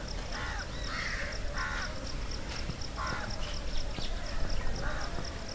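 Five short, harsh bird calls spread over a few seconds, with a steady, fast high-pitched pulsing behind them.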